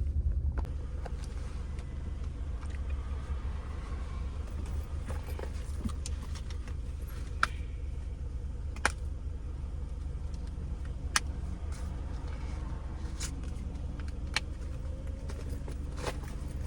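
Car engine idling, heard from inside the cabin as a steady low hum, with a few short sharp clicks scattered through it.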